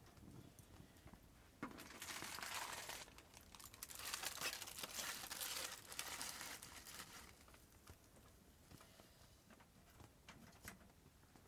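Crinkling rustle of something being handled, starting sharply about a second and a half in and going on for about six seconds, then a few light clicks near the end.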